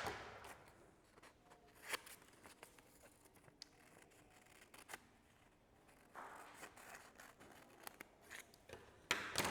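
Scissors cutting through a folded sheet of paper: faint, scattered snips and paper rustle, with a louder burst near the end.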